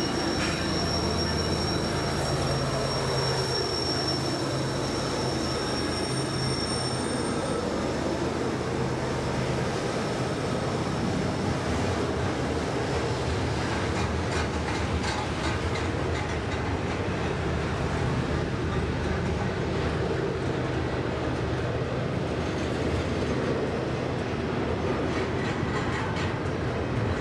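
Long freight train rolling past, with a steady rumble of wheels on rail. High steady squeals from the wheels fade out in the first several seconds, and faint clicks of wheels over the rail joints come later.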